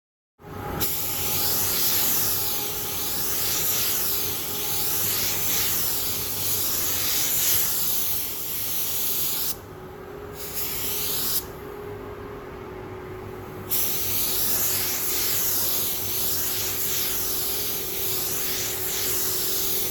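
Primer being sprayed onto a repaired plastic motorcycle fairing panel: a loud, steady spray hiss that starts about half a second in. It stops twice briefly midway as the trigger is let off, then carries on.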